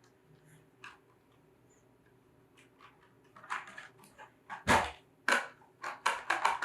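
A dog barking several times in short sharp barks, the loudest about halfway through, after a few seconds of quiet with a faint steady hum.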